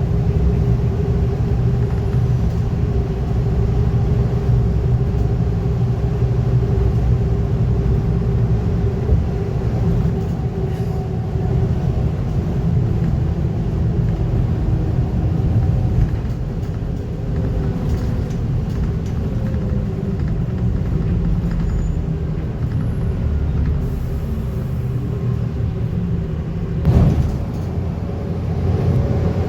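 Scania N230UD double-decker bus's five-cylinder diesel engine and drivetrain heard from inside the bus under way: a steady rumble with an engine note that slides slowly down in pitch through the middle as the bus eases off. Two loud knocks near the end.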